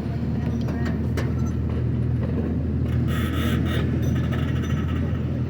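Tourist train in motion: its engine hums steadily and low as it rolls along the track, with a few clicks and a brief burst of higher-pitched noise about three seconds in.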